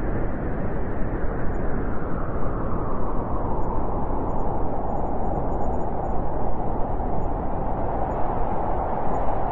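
Thunder rumbling low and steady, a continuous muffled roll without sharp cracks.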